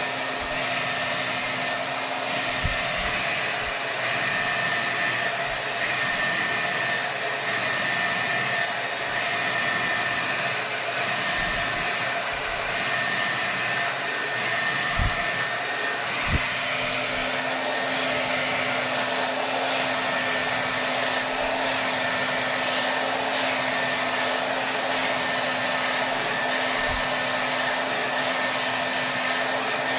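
Hair dryer blowing at full power: a steady rush of air with a low hum that drops out a few seconds in and comes back about halfway through, and a few faint low bumps.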